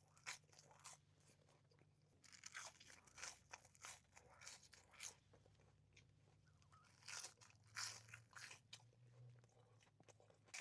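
Faint, close-up chewing of fried chips: soft, irregular crunches coming in clusters with short pauses between.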